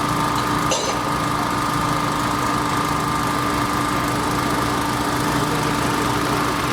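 A machine engine running steadily at idle, with a constant low rumble and a steady whine over it, and a short click a little under a second in.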